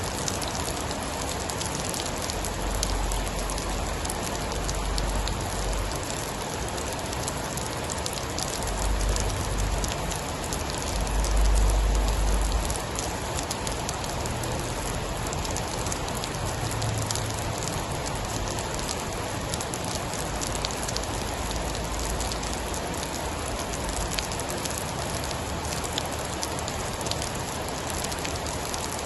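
Steady heavy rain with fine crackles from a wood fire running through it. Low rumbles of thunder swell several times, the loudest a little before the middle.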